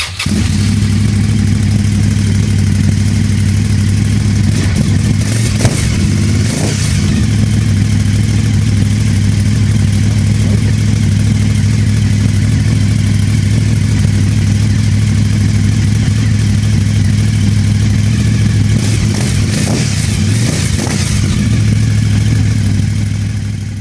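Suzuki TL1000S 996 cc V-twin engine idling through a LeoVince SBK Evo2 aluminium exhaust with the dB-killers removed. It gives a steady, loud, deep note and is blipped briefly about 6 s in and again around 20 s.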